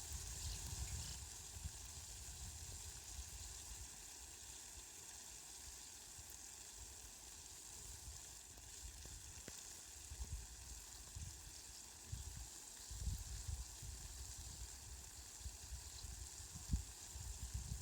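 Steady, fairly faint hiss of falling rain, with patches of low rumble at the start, about ten seconds in and again a few seconds later.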